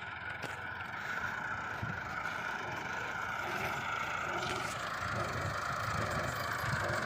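Heavy diesel farm machinery engine running steadily, slowly growing louder.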